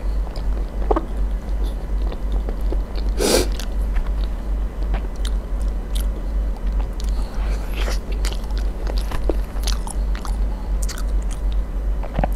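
Close-miked eating sounds of a creamy, crumb-topped dessert taken from a spoon: wet chewing with many short mouth clicks and one louder smack about three seconds in, over a steady low hum.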